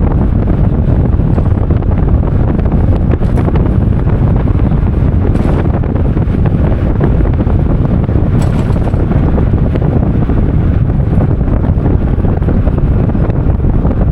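Heavy wind buffeting the microphone: a loud, steady low rumble with no break.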